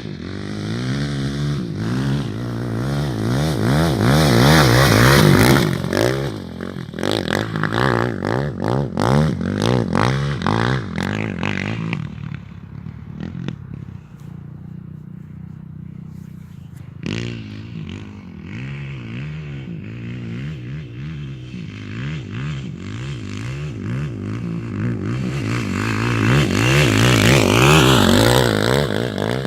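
Motorcycle engine running with the throttle opening and closing, its pitch rising and falling. It is loudest about five seconds in and again near the end, and quieter in the middle.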